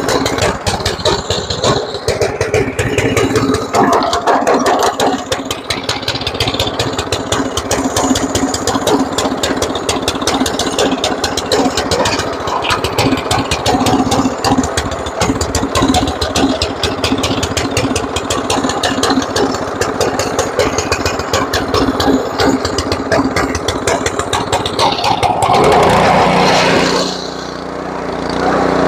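Snowblower's small gasoline engine running steadily with a fast, even firing rhythm. Near the end its sound shifts and briefly dips in loudness.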